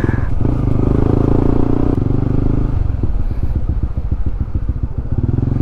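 Honda CB150X's single-cylinder engine running as the bike rides along. About three seconds in, the engine note drops to a slower, pulsing beat for a couple of seconds, then picks back up to a steady run near the end.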